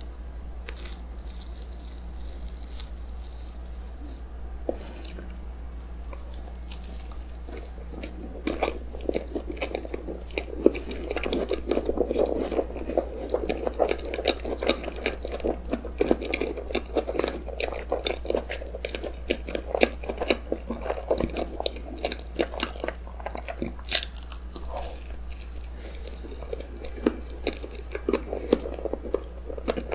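Close-miked chewing of a mouthful of soft, cream-filled roll cake, with wet mouth clicks and smacks. Fairly quiet at first, the chewing gets louder and busier about eight seconds in, over a steady low hum.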